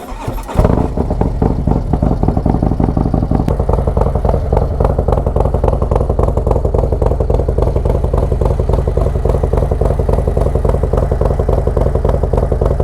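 A 2020 Harley-Davidson Road Glide's Milwaukee-Eight V-twin, bored to 128 cubic inches, through a Khrome Werks 2-into-1 exhaust. It starts up about half a second in, then runs at a steady idle with a fast, even beat.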